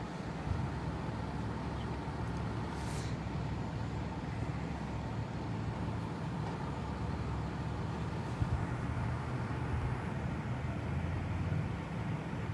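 Steady low rumble of motor vehicles running nearby, road traffic and idling engines, with a brief hiss about three seconds in.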